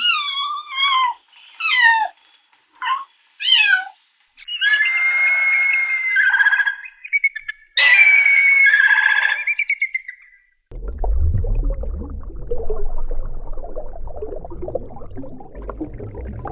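A kitten mewing: a run of short high calls, each falling in pitch, then two longer drawn-out mews. About two-thirds of the way through it gives way to a steady low rumbling noise.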